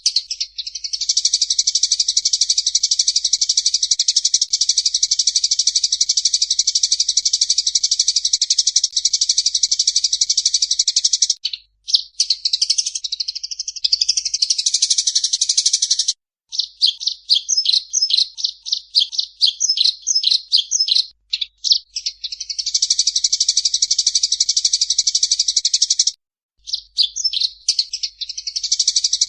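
Recorded songbird song for training a cage bird: long, rapid, high-pitched trills lasting several seconds, broken by short gaps and by stretches of separate quick notes.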